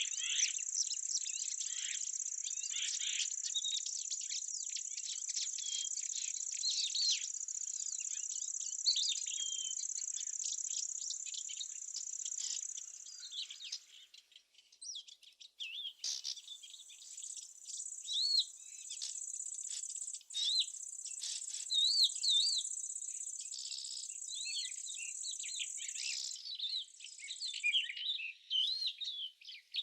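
Crickets or other insects trilling in a steady high-pitched chorus, with small birds chirping and calling over it; the insect trill breaks off briefly about halfway through, and the bird chirps grow busier in the second half.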